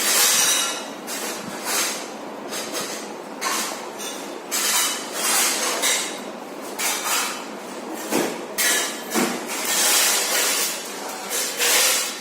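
Havells electric fan making an abnormal noise: uneven bursts of rattling and clinking over a steady hiss, the sign of something loose or rubbing in the fan.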